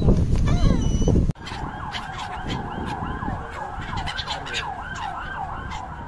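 Birds calling. About a second in, loud low rumbling noise with chirps cuts off abruptly. A rapid run of repeated looping whistled notes follows, about three a second.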